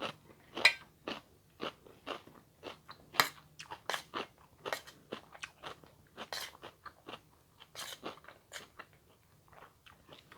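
Close-up chewing: a person eating, with irregular crisp crunching bites, a few a second.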